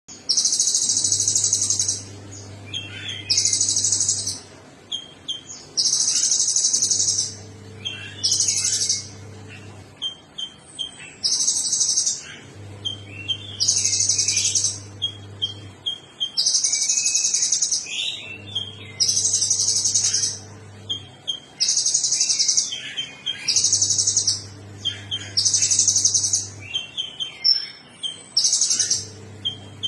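A bird singing: loud, harsh, high trilled bursts about a second and a half long, repeating about every two seconds, with short chirps between them. A low hum comes and goes every few seconds underneath.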